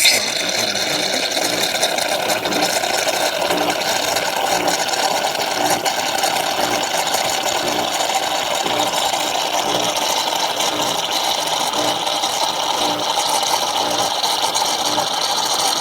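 Chefman 6-in-1 espresso machine running its 15-bar pump in a double-latte cycle: a loud, steady mechanical buzz that starts suddenly.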